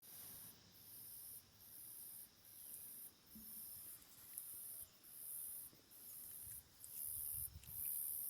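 Insect calling in a steady rhythm of high-pitched pulses, a little more than one a second, growing louder toward the end.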